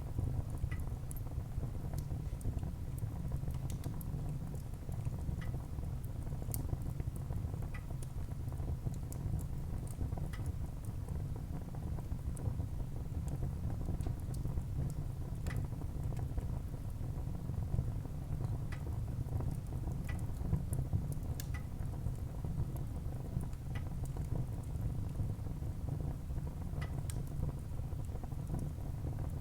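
Wood fire burning in a fireplace: irregular crackles and sharp pops scattered throughout over a low, steady rumble.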